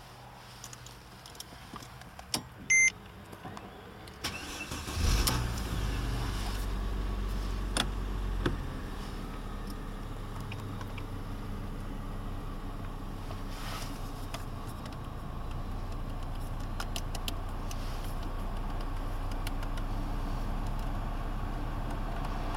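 Mercedes-Benz CLS 350's 3.5-litre V6, heard from inside the cabin. First come a couple of clicks and a short beep; then, about five seconds in, the engine is started, catches and settles into a steady idle.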